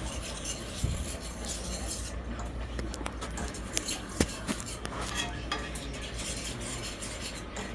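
A metal utensil stirring and scraping in a cooking pot, with scattered sharp clinks against the pot.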